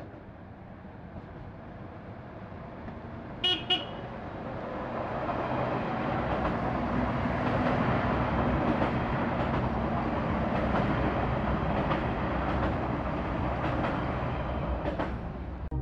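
A train approaches and passes close by, its running noise swelling over several seconds into a steady loud rumble with faint clicks. A short horn toot sounds twice in quick succession about three and a half seconds in.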